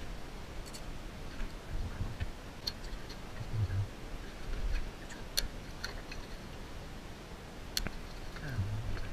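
Scattered sharp clicks and ticks at irregular intervals, with a few low thuds.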